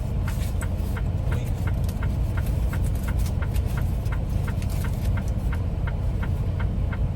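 Steady low rumble of a truck's engine heard inside the cab, with an even clicking about three times a second running through it.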